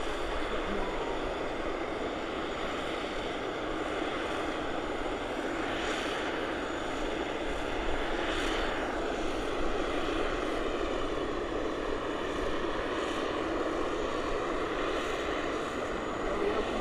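Aircraft engines running near an airport runway: a steady rush of noise with a faint whine that drifts slowly in pitch.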